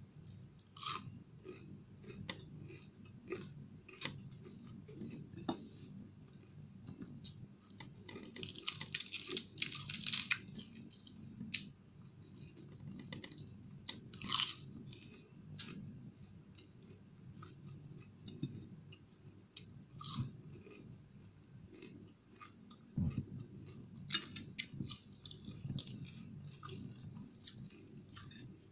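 Close-up chewing of crispy fried fish, with wet mouth clicks and occasional louder crunches, the biggest about nine and fourteen seconds in.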